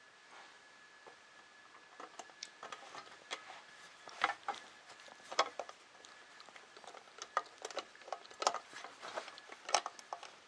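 Irregular small clicks and taps of a screwdriver driving screws into a 3D printer kit's bottom plate. They start about two seconds in.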